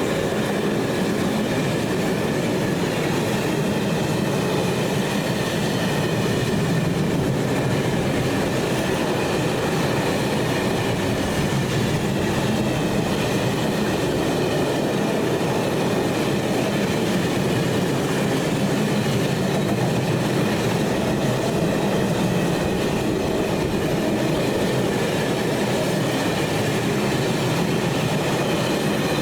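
Train rolling past at close range: a steady rumble and clatter of wheels on rail that does not let up, with a faint thin wheel squeal held above it.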